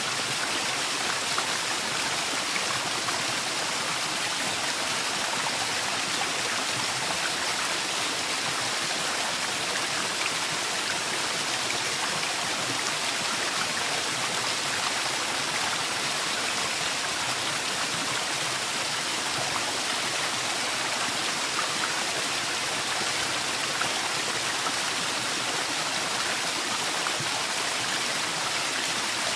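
Small forest waterfall, water pouring and splashing in a steady, even rush.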